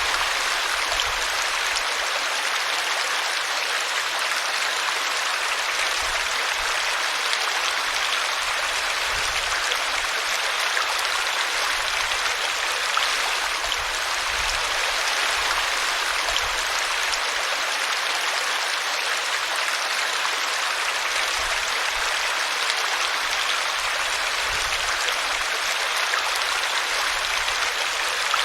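Small forest brook spilling over a tree root, a steady, continuous rush and splash of running water.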